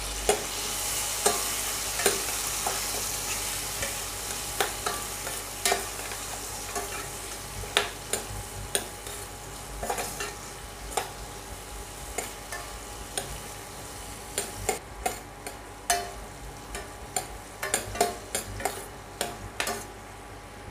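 Chopped tomatoes, shallots and green chillies frying in hot oil in a stainless steel kadai, a steady sizzle that dies down as it goes. A steel ladle stirs them, clinking and scraping against the pan many times, more often in the second half.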